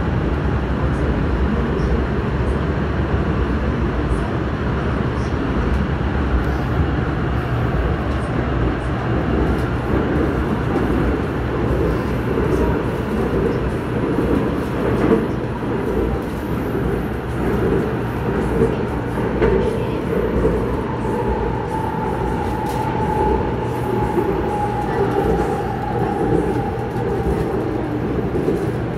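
Airport Railroad (AREX) all-stop commuter train running at speed through a tunnel: a steady rumble and roar of wheels on rail. About two-thirds of the way through, a faint whine rises out of the noise and sinks slightly in pitch.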